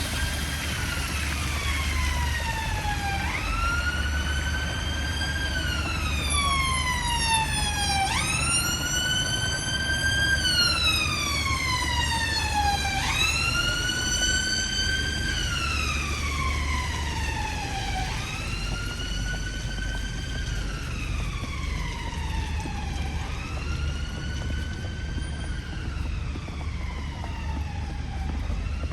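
An emergency vehicle siren sounding a slow wail: each cycle jumps up quickly in pitch and then slides slowly down, repeating about every five seconds, loudest near the middle and a little fainter toward the end. A steady low rumble runs underneath.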